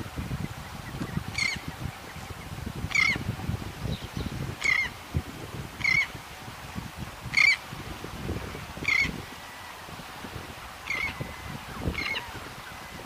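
A bird calling over and over: about eight short calls, roughly one every one and a half seconds, over a low, uneven rumble.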